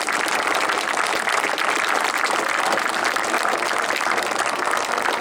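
Crowd applauding: a steady patter of many hands clapping.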